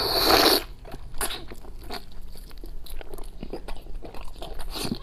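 Close-miked eating of a braised pig's snout: a loud bite in the first half second, then chewing with many small wet clicks.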